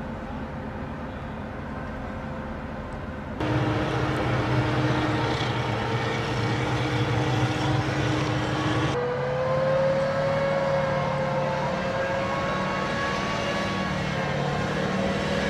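Steady mechanical drone of a running engine or machine, with held tones. It jumps louder abruptly about three seconds in and shifts to a different pitch about nine seconds in.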